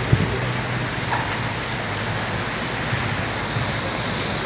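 Steady downpour of wind-driven rain, an even hiss with no let-up; a single short knock sounds just after the start.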